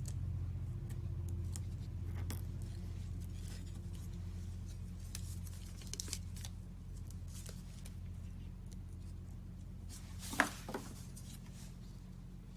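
Quiet handling of cardstock and glue dots: a few small clicks and rustles over a steady low hum, with a sharper tap and a second smaller one about ten seconds in.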